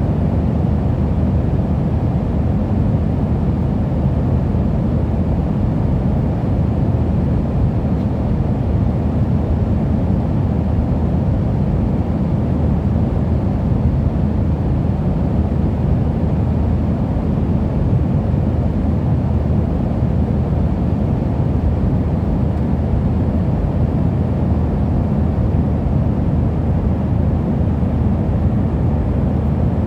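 Steady low rumble of a passenger aeroplane's engines and airflow heard from inside the cabin, unchanging throughout.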